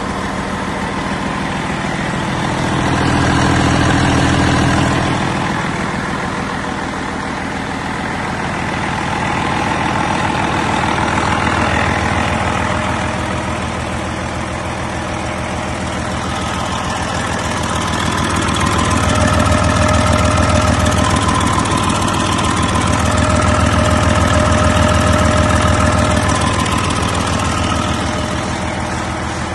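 Detroit Diesel Series 60 14.0-litre inline-six turbo diesel running on a test run, mostly near idle. Its speed is raised and let back down about four times.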